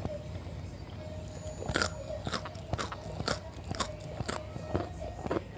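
Close-up crunchy chewing of raw vegetables. Sharp crunches come about twice a second from about two seconds in.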